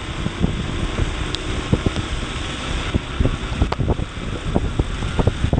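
Steady rush of wind and rain on a motorcycle rider's microphone while riding in a heavy downpour, with many irregular ticks like raindrops striking the microphone.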